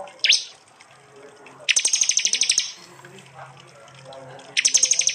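Prenjak (prinia) giving its loud 'tembakan' calls: one sharp downward-sweeping note near the start, then two fast rattling bursts of rapidly repeated high notes, each about a second long, around two seconds in and near the end.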